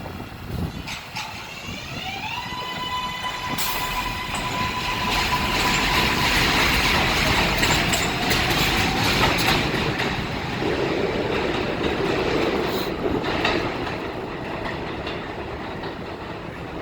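New York City subway train on the J/Z line running through the station. Its electric motors whine, climbing in pitch in steps starting about a second in and then holding steady, while the wheels clatter on the rails, loudest around the middle.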